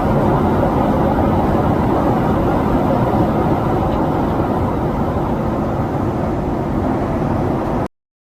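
Jet engine noise from a Boeing 777-300ER's GE90 turbofans at takeoff, a steady low rumble that eases slightly, then cuts off abruptly near the end.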